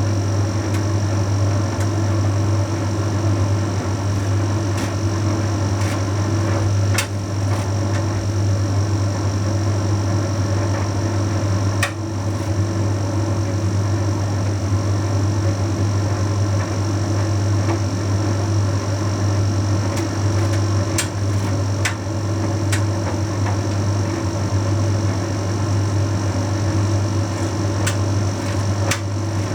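Bosch Series 6 heat pump tumble dryer running mid-cycle: a steady low hum with a faint high whine above it, and a few short sharp clicks as the load tumbles in the drum.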